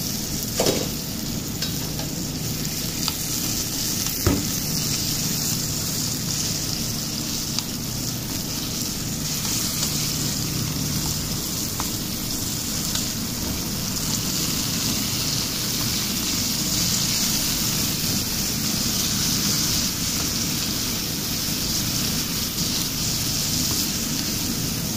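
Ground chicken and onions frying in oil in an aluminium pan, a steady sizzling hiss, stirred with a wooden spatula. A couple of sharp knocks sound in the first few seconds.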